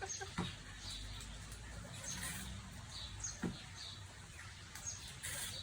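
Small birds chirping: short, high, downward-sliding chirps repeated about once a second, over a faint low hum.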